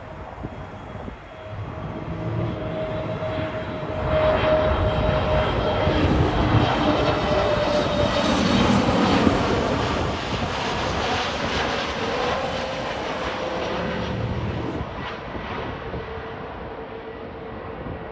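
Jet airliner passing overhead as it comes in to land: the engine noise builds, is loudest from about four to ten seconds in, then fades. A steady whine drops slightly in pitch as the aircraft passes.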